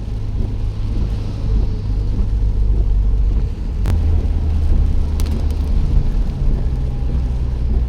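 Car on the move: a steady low engine and road rumble, with a sharp click about four seconds in.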